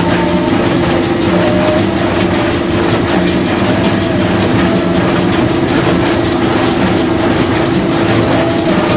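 Farm machinery running steadily: a loud engine with a constant whine over it.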